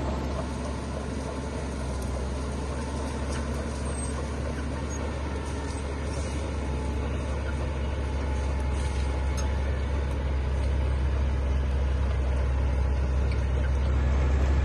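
Heavy diesel engine of earthmoving equipment running steadily with a deep low rumble, growing gradually louder toward the end.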